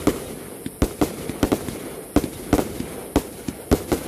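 Fireworks bursting in a quick, irregular run of sharp bangs, about ten in four seconds, each with a short echo.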